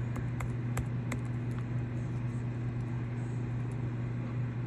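A steady low hum, with a few faint sharp clicks in the first second and a half.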